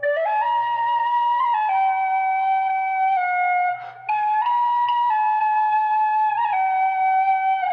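Celtic flute playing a slow solo melody of long held notes that step up and down, with a brief pause for breath about four seconds in.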